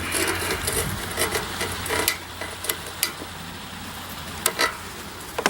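Paper towel being lit inside a metal bee smoker: a run of light clicks and scrapes, busier in the first two seconds, then sparse clicks with a sharper one about four and a half seconds in.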